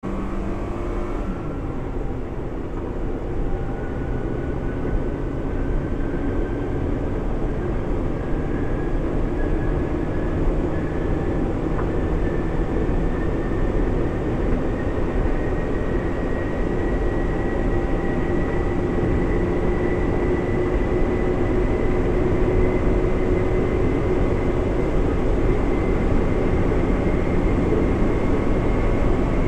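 Mitsubishi Xpander's four-cylinder engine pulling at full throttle at high road speed, with road and wind noise. About a second in the engine note drops, as at an upshift, then climbs slowly and steadily as revs build again.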